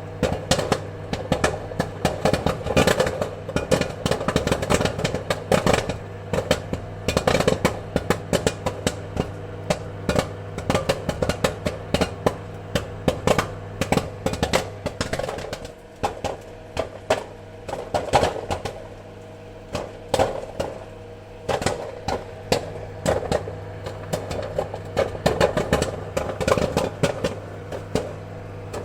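Popcorn popping: many quick pops at an irregular pace, thinning out a little past the middle, over a steady low hum.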